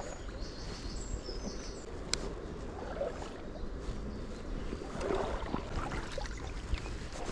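Riverside outdoor ambience: wind buffeting the microphone over the steady rush of the river, with a few short bird chirps in the first second or so and a single sharp click about two seconds in.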